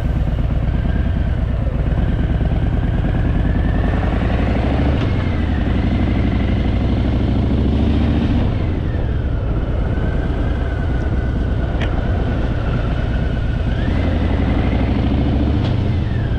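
Harley-Davidson Fat Boy's V-twin engine running on the road. Its pitch rises under acceleration, drops at a gear change about eight seconds in, and rises again near the end.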